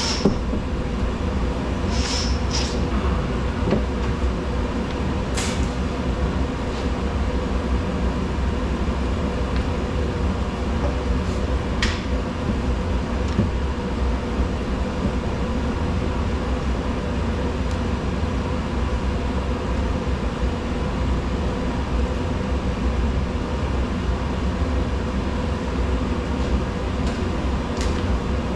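A steady mechanical drone with a deep rumble and a faint hum, with a few light clicks scattered through it.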